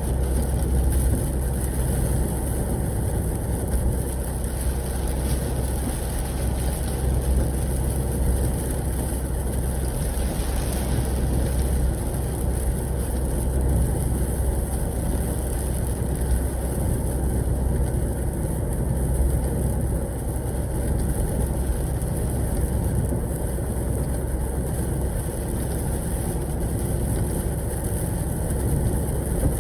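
Semi truck's engine running steadily on the road, a low drone heard from inside the cab, with a steady hiss over it.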